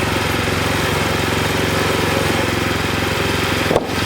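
Wood-Mizer LX25 sawmill's small engine running steadily, with a brief break in the sound near the end.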